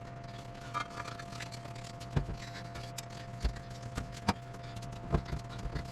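Hand tools knocking and clicking on metal while prying at a stuck radiator hose and clamp, about seven sharp separate knocks, over a steady low hum.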